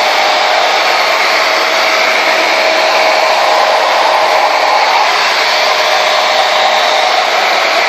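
Conair Yellow Bird blow dryer running steadily: a loud rush of air with a steady motor whine.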